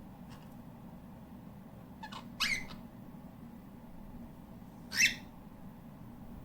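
Cockatiel giving short, shrill chirping calls: a soft call and then a louder one about two seconds in, and another sharp call about five seconds in.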